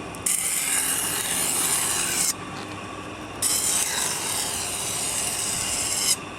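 Knife blade drawn along a slow-turning, water-fed 80-grit sharpening stone wheel, in two long gritty grinding strokes of about two and three seconds that start and stop abruptly. A steady low hum runs underneath.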